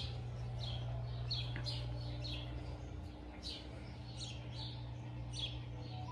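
A small bird chirping, a series of short, high, quick chirps about two a second, over a steady low hum.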